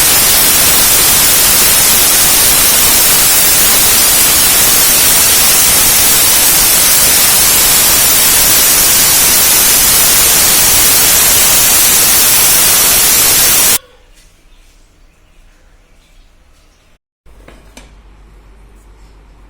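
Loud, steady static hiss that cuts off suddenly about fourteen seconds in, leaving faint room sound with a few light clicks and a low hum near the end.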